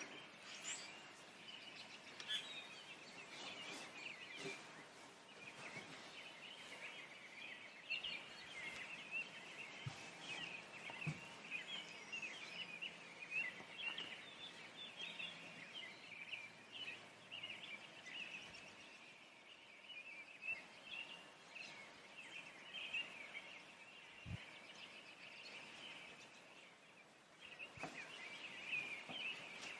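Distant chorus of many songbirds, a dense, continuous chatter of overlapping chirps and calls, with an occasional faint knock.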